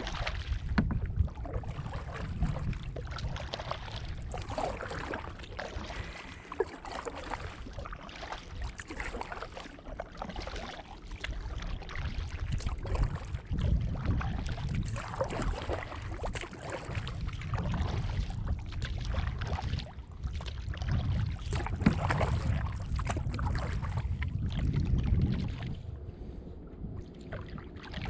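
Strong gusty wind buffeting the microphone, swelling and easing every few seconds, over water splashing and slapping around a canoe being paddled through wind-driven chop.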